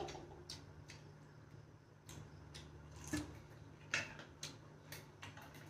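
Eating sounds: irregular moist clicks and smacks of chewing and mouth movement, the loudest about three and four seconds in, over a steady low hum.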